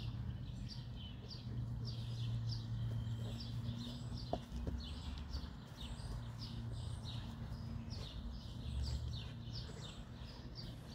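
A small bird chirping over and over, about two short calls a second, over a low steady hum that drops out now and then.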